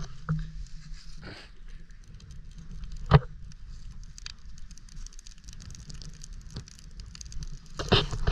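A small fire crackling with faint irregular ticks, and a sharp pop about three seconds in.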